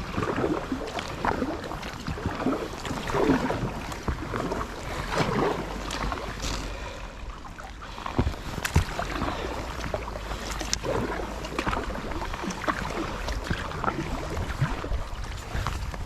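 Kayak paddle strokes splashing in the water, a stroke every couple of seconds, over a low wind rumble on the microphone.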